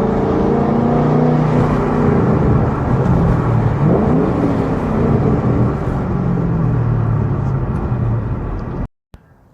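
Straight-piped Ford Mustang exhaust running loud as the car is driven, its note rising and falling a little. It cuts off suddenly near the end.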